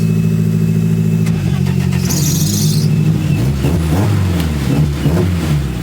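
The twin Saab engines of a Vauxhall Astra van pick-up idle steadily. From about a second and a half in, the engines are revved, the note rising and falling, with a short burst of hiss about two seconds in.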